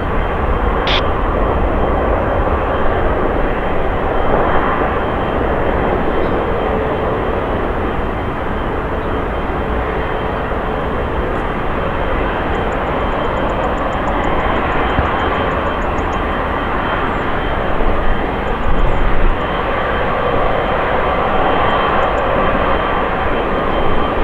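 Jet airliner engines, a loud steady rushing noise that swells a little now and then, with a brief high whistle about a second in.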